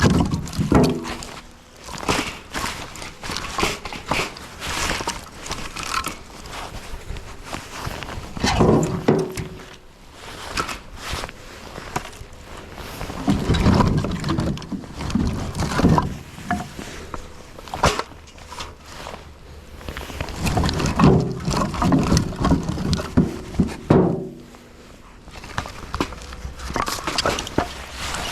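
Split firewood being handled and stacked: repeated wooden knocks and clatters as pieces are set down and strike one another, with heavier clunks in several clusters.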